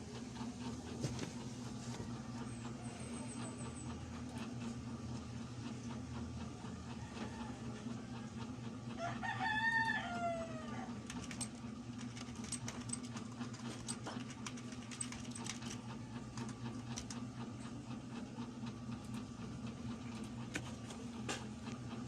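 A rooster crows once, about nine seconds in, over a steady low hum and a few faint clicks.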